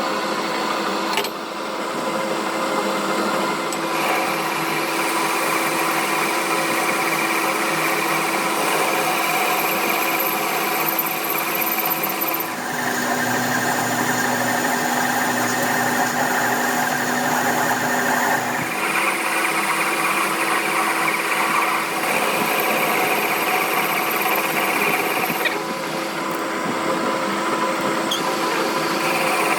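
A metalworking machine tool running steadily with a constant hum and whine. The tone of the machining changes abruptly a few times.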